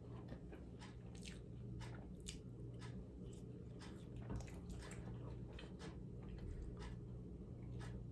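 A person biting and chewing a buffalo-sauced chicken sandwich close to the microphone: many irregular mouth clicks, over a low steady hum.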